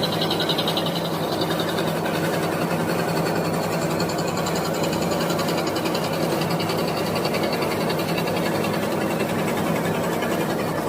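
Electric scroll saw running steadily, its blade reciprocating rapidly as it cuts through a wooden board.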